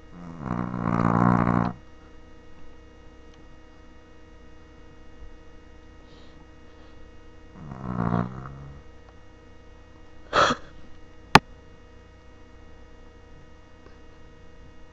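Dog snoring, a growling "grrr" rumble on the breath: a long snore at the start, another about eight seconds in, and a short, higher one a couple of seconds later. A single sharp click follows soon after.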